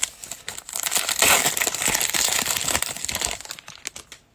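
Plastic wrapper of a trading card pack crinkling and crumpling in the hands, a dense crackle that is strongest from about one to three and a half seconds in.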